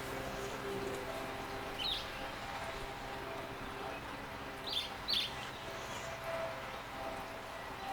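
A few short, high bird chirps from wild garden birds: one about two seconds in and three in quick succession around five seconds. Behind them is a steady hiss of flowing water from a bird bath fountain, with a faint steady hum.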